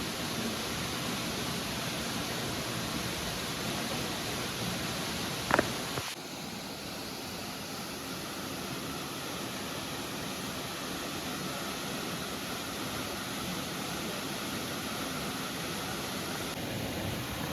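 Steady rush of a waterfall's falling water, with a single sharp knock about five seconds in; the rush turns slightly quieter and changes character abruptly about a second later.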